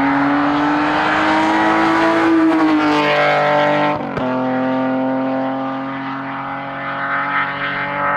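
A hillclimb race car's engine pulling hard at full throttle, revs rising steadily. It shifts up once about four seconds in, with a brief gap in the sound, then pulls on and eases slightly toward the end.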